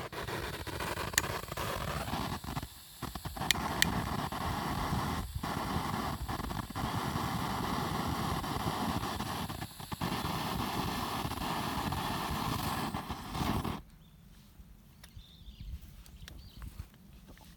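Arc welding on iron: a steady crackling hiss with sharp clicks and a few brief breaks, cutting off about fourteen seconds in.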